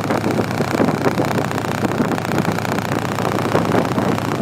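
Motorcycle running at road speed, its engine drone mixed with steady wind rush over the microphone.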